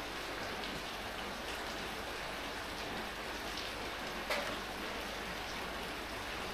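Steady rain falling, an even hiss with occasional louder individual drops hitting a surface, one distinct splat about two-thirds of the way through.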